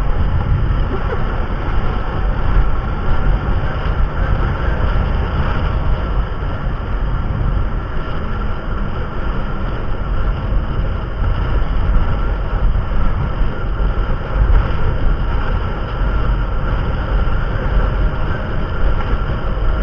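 Car driving on asphalt, heard from inside the cabin: steady road rumble with a continuous tyre hum from its mud-terrain tyres, which are noisy on asphalt.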